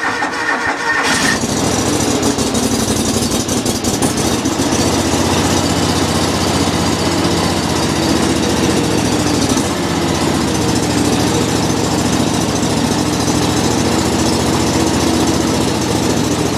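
A John Deere 345 lawn tractor's Kawasaki engine is being cold-started on choke. The starter cranks slowly for about a second, slowed by a weak battery and thick cold oil, then the engine catches and runs steadily.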